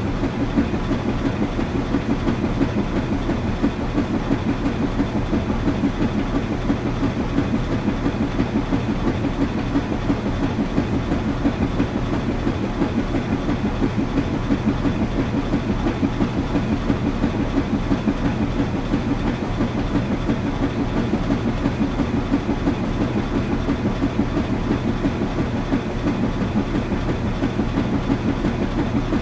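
Washing machine running steadily: a continuous low mechanical rumble with a fast, even pulse and a steady hum underneath.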